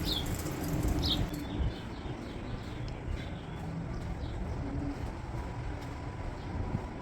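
Wind buffeting the microphone in a steady, gusty low rumble, with a few short falling bird chirps near the start and about a second in.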